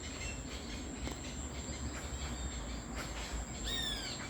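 Evening outdoor ambience: a steady high-pitched insect drone over a low wind rumble. About three and a half seconds in, a bird gives a short run of quick falling whistled notes.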